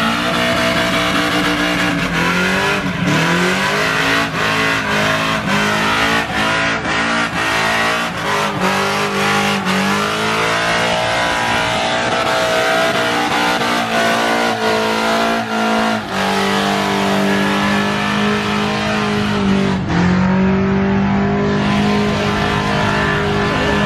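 Car engine revved hard and held high during a burnout, with spinning tires squealing. The pitch wavers and dips briefly a few times before holding steady near the end.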